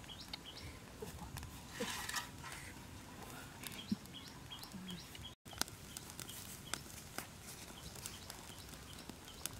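Scattered sharp clicks and light knocks, with runs of short, high bird chirps repeated several times a second.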